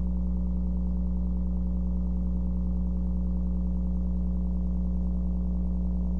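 Low-tone electrical buzz from a sound system, held steady and unchanging, with a deep hum under a stack of buzzy overtones. It is the sign of a grounding fault, a ground loop in the audio chain.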